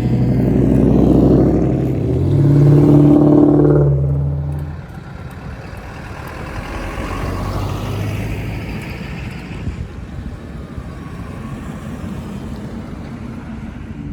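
Aftermarket exhaust of a custom VIP-style car driving off: a loud, low exhaust note that rises in pitch about two seconds in, then drops away sharply about five seconds in, leaving a quieter, rougher engine rumble.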